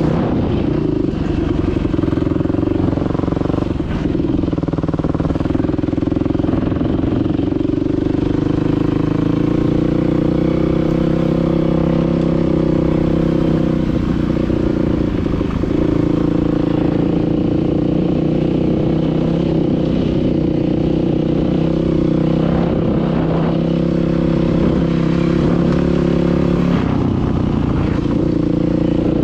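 Dirt bike engine running steadily, its pitch dipping and shifting briefly a few times.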